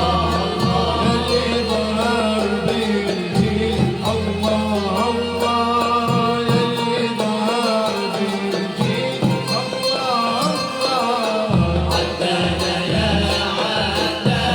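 Malouf ensemble playing live Middle Eastern folk music: a winding, ornamented melody over a steady low bass.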